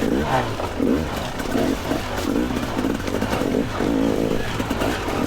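Two-stroke dirt bike engine revving in short, repeated throttle bursts, its pitch rising and falling about every half second to second.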